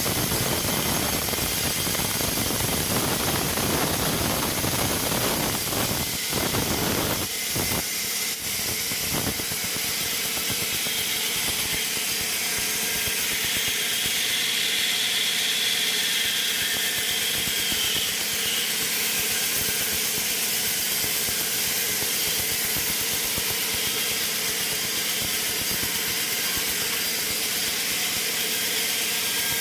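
Sawmill machinery running steadily. The noise is heavier and rougher for the first seven seconds or so, then settles into a steadier hum with hiss.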